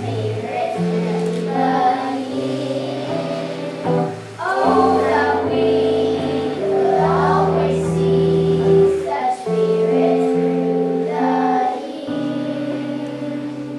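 A group of children singing a slow song together over sustained chords from an accompanying instrument; the music grows softer near the end.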